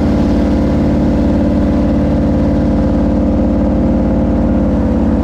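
Jet boat engine running at a steady speed, a loud, even drone with a regular low pulse.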